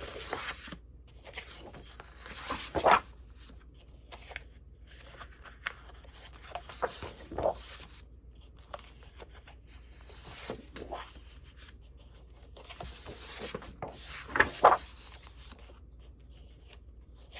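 Sheets of paper rustling and shuffling as they are handled and leafed through, in scattered bursts with quiet gaps between.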